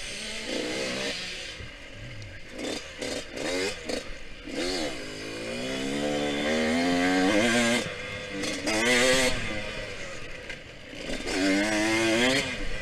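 Yamaha YZ125X two-stroke dirt bike engine revving hard, its pitch climbing and dropping again and again as it is ridden. There are clattering knocks in the first few seconds.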